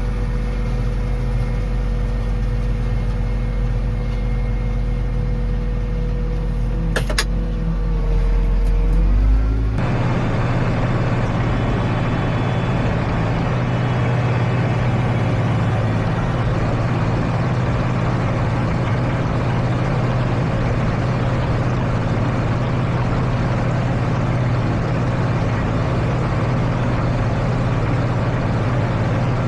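Tractor engine running steadily under field work, its pitch dipping briefly about eight seconds in. About ten seconds in the sound changes abruptly to a noisier, steady run of farm machinery.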